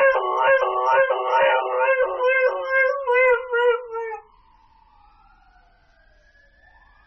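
Dog 'talking' on command, answering a prompt to say thank you: a string of short, wavering howl-like yowls, about two a second, that stops about four seconds in.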